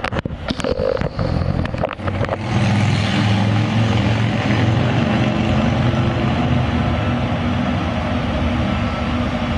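Diesel locomotives of a loaded grain train running with a steady heavy low drone, which comes up loud about two and a half seconds in. Before that, a scatter of sharp clicks and knocks.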